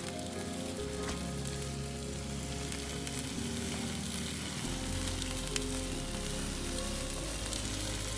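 Food sizzling in a frying pan: a steady crackling hiss.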